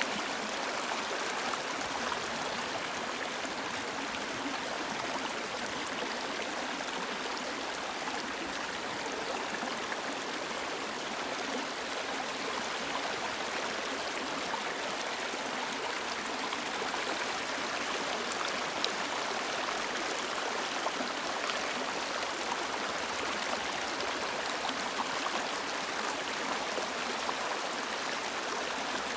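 River water flowing steadily: an even rush of running water with small splashes.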